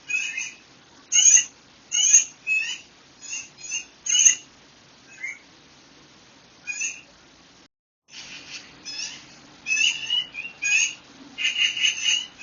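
Wild songbirds singing: a quick run of short, bright whistled notes and sweeping phrases, over a faint steady background. The sound cuts out completely for a moment about two-thirds of the way through, then the calls resume more densely.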